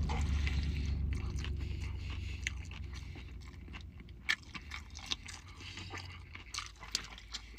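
Close-up chewing of a mouthful of food, with irregular wet mouth clicks and small crunches, over a low rumble that fades through the first half.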